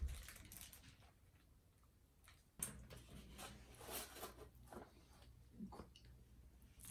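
Faint eating sounds: irregular small clicks and mouth smacks of someone chewing a burger and spaghetti up close.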